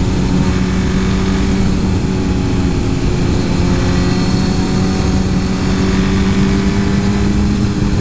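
Suzuki GSX-R 1000 inline-four motorcycle engine running under way at a fairly steady speed, its pitch drifting gently, with wind rumbling on the microphone.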